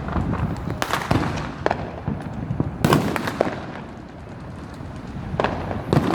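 Fireworks going off: a string of sharp bangs and crackling pops, the loudest about one and three seconds in, easing off briefly past the middle before more bangs near the end.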